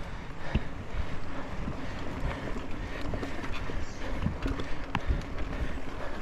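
Mountain bike being ridden over a dirt trail: wind buffeting the microphone over a steady low rumble, with scattered small clicks and knocks from the tyres and bike.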